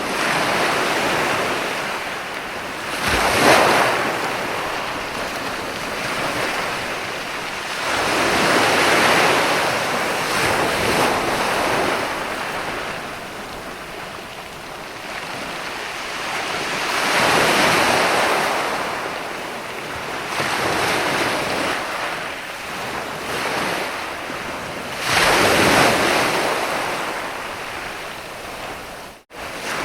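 Sea waves breaking and washing up a beach, swelling into a surge of surf about every eight seconds, with sharper crashes about three seconds in and again near the end. The sound drops out for an instant just before the end.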